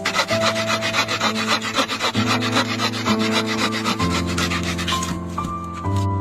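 Fast, even scraping on wood, about eight strokes a second, stopping near the end, over soft piano music.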